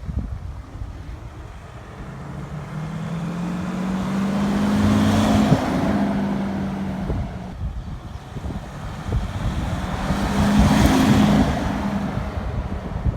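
VW Amarok 2.0 BiTDI pickup with a Kufatec Sound Booster Pro active exhaust driving past twice, its synthetic V8 sound swelling and fading, loudest about five seconds in and again near eleven seconds. Wind noise on the microphone throughout.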